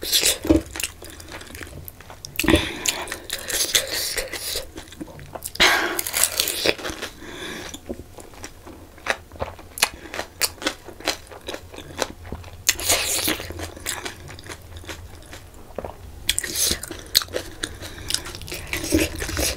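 Close-miked biting and chewing of crisp panipuri shells: several loud bursts of crunching, with quieter chewing clicks between them.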